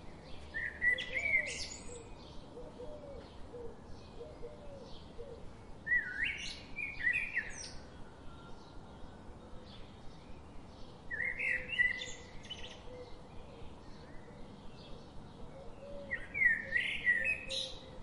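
A songbird singing a short chirping phrase four times, about every five seconds, over a faint, regular ticking of about three ticks a second.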